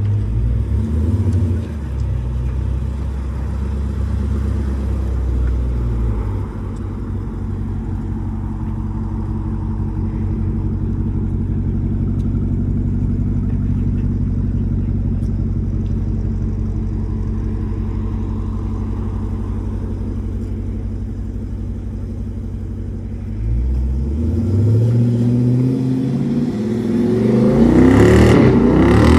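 Jeep Grand Cherokee SRT's HEMI V8 with a muffler delete, running steadily for most of the time, then climbing in pitch in rising pulls near the end as it accelerates.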